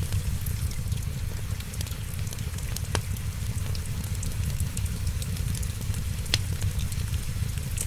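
Wood fire crackling with a steady low rumble underneath, a constant patter of small crackles and two louder pops, about three seconds in and near the end.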